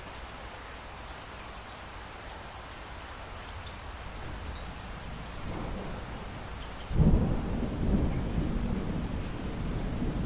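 Steady rain falling, with thunder swelling faintly past the middle, then a sudden loud clap of thunder about seven seconds in that rolls on as a low rumble.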